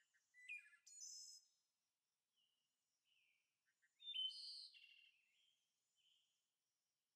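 Faint bird chirps: scattered short whistles and tweets, the loudest about four seconds in.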